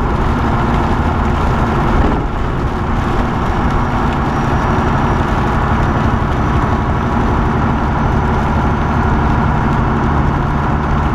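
Semi truck's diesel engine running steadily under load, with road and wind noise inside the cab. The truck is down on power from a failing turbo.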